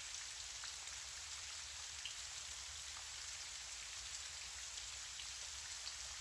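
Gentle rain falling steadily, an even hiss with scattered individual drops ticking.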